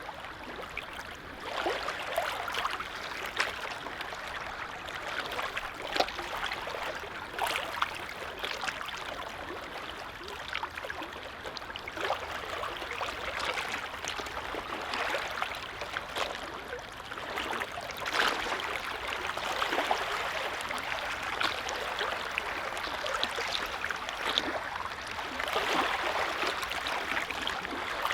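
Small waves lapping on a calm lake: a continuous wash of water with frequent small splashes, swelling a little now and then.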